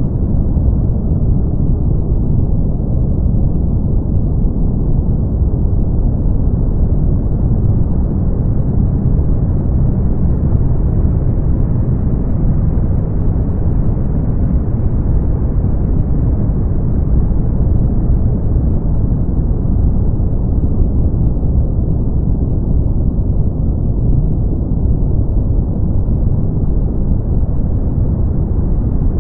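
Brown noise: a steady deep rumbling hiss, strongest in the bass and dying away above the upper midrange, with no rhythm or events.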